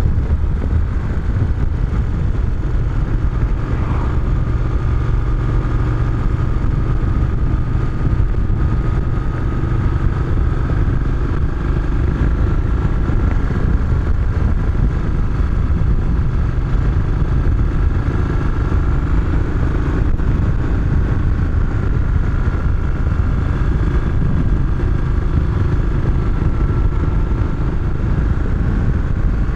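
Moto Guzzi motorcycle's transverse V-twin engine running steadily at cruising speed, its pitch drifting slightly up and down, under a heavy low rumble of riding wind.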